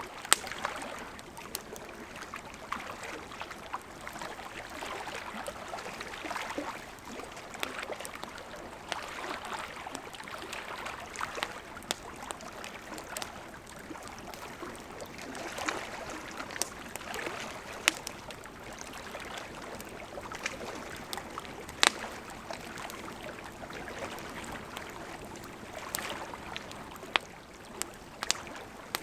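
Steady rushing and gurgling of a gently flowing river, with a wood campfire crackling over it in scattered sharp pops, a few louder snaps standing out.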